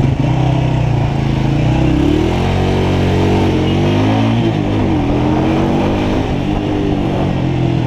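Motorcycle engine running on the move, its pitch climbing and dropping a few times as it speeds up and eases off.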